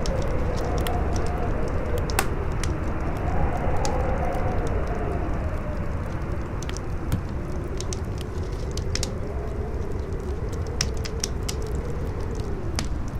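Campfire crackling with scattered sharp pops, over howling wind whose whistling pitch slowly rises and falls in long swells, with a deep steady rumble underneath.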